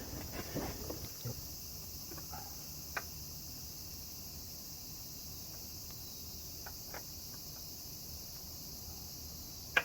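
Steady high-pitched chorus of crickets, with a few faint clicks and scrapes of an oil filter being threaded on by hand.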